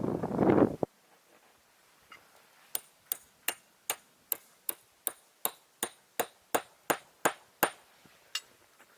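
A rush of wind noise that cuts off abruptly within the first second, then about a dozen sharp, evenly spaced hammer strikes at roughly three a second with a slight ring, and one last strike near the end.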